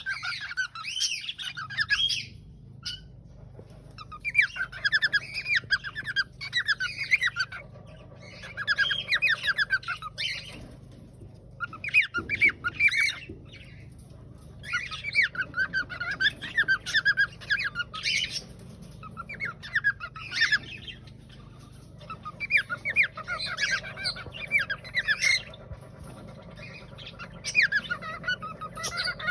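Cockatiel singing: repeated phrases of quick, chattering, warbled notes, each a second or two long with short pauses between them.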